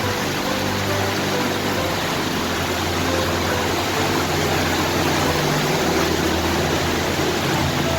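Steady rushing water, heard as a dense even noise, with slow sustained background music notes underneath.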